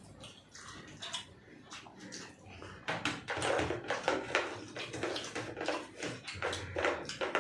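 People chewing and smacking mouthfuls of fried rice and paneer lababdar, a quick irregular patter of mouth and eating noises that gets busier and louder about three seconds in.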